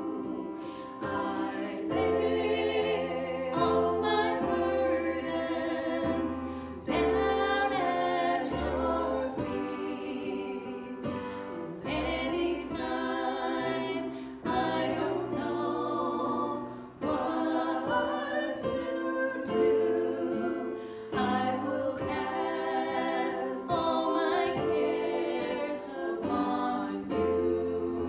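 A worship song: voices singing over instrumental accompaniment, with sustained chords and long low bass notes.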